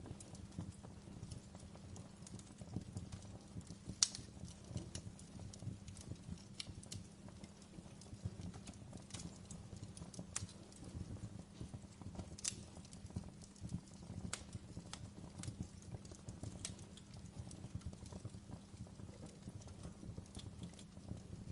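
Wood fire burning in a fireplace: a steady low rumble of flames with irregular sharp crackles and pops from the burning logs, the loudest pop about four seconds in.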